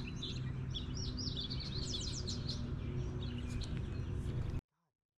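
Songbirds chirping and singing, with quick falling whistles about two seconds in, over a steady low hum. All of it cuts off abruptly about four and a half seconds in.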